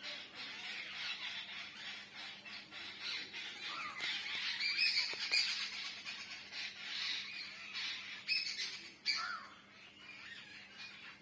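Many birds calling at once: a dense chatter of overlapping short calls, busiest around the middle, with a few louder, sharper calls later on.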